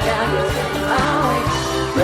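Pop song performed live: a woman's lead vocal over a band with a steady drum beat and bass.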